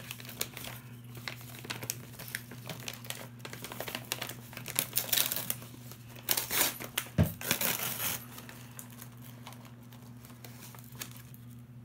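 Crinkling and rustling of a snack bag being handled and opened, in irregular bursts of crackles that are busiest in the middle and thin out toward the end.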